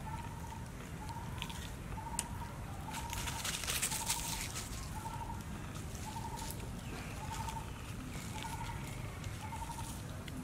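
A bird calling one short, even note over and over, a little more than once a second, over a steady low rumble. About three to four seconds in comes a burst of crackly rustling and crunching, the loudest part.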